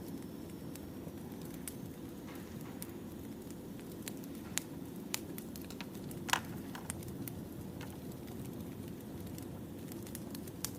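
Wood fire burning: a steady low rush of flame with scattered sharp crackles and pops, the loudest pop about six seconds in.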